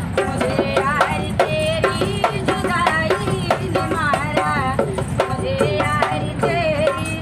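A woman singing a folk song in a wavering, ornamented melody, accompanied by a dholak drum beaten in a quick, steady rhythm.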